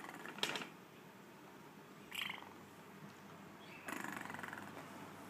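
Quaker parrot making short raspy chattering calls: a brief harsh one near the start, a shorter, higher one about two seconds in, and a longer rattling call around four seconds in.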